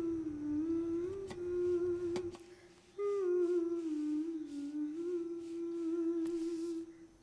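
A voice humming a slow, wordless melody in two long phrases, the second beginning about three seconds in.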